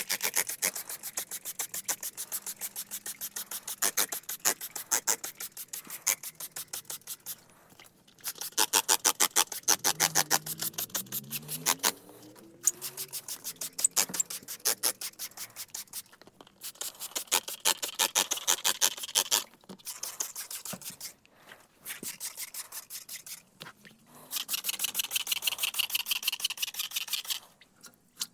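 Rapid, evenly repeated rasping scrapes, several strokes a second, in runs of a few seconds with short pauses between.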